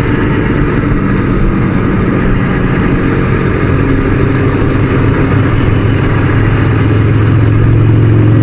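Motorcycle engine running steadily at cruising speed, with rushing wind noise over it.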